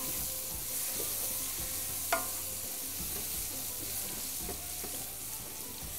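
Onions and grated carrot frying with a steady sizzle in a large metal pot as they are stirred with a spoon. The spoon knocks against the pot with a sharp ringing clank at the start and again about two seconds in.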